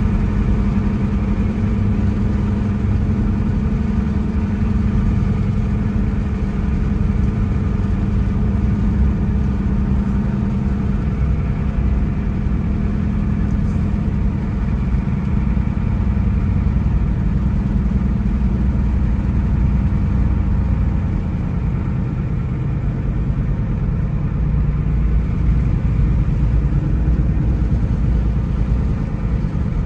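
Car driving at a steady pace: an even engine hum with low road rumble from the tyres, holding steady without any sharp events.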